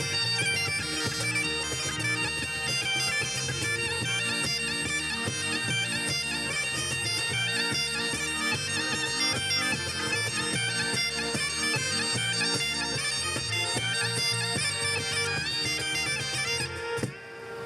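Bagpipes playing a tune over a steady drone, with a brief drop in sound about a second before the end.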